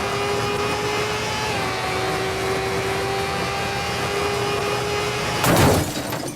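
Motorcycle engine humming at a steady cruising speed under a haze of wind and road noise. The engine note dips slightly about a second and a half in, and a loud rush of wind or a passing vehicle comes near the end.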